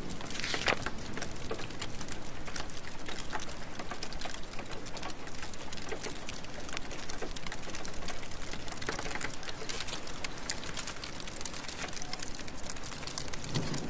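Steady rain falling, with a dense scatter of small ticks and crackles throughout.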